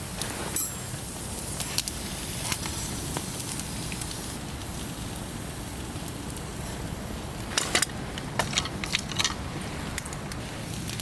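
Fire crackling in a campfire pit over a steady low rush, with scattered sharp pops and a small cluster of them late on.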